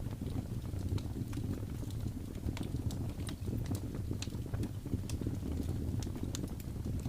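Wood fire crackling, with sharp pops at irregular moments, several a second, over a steady low rumble of blizzard wind.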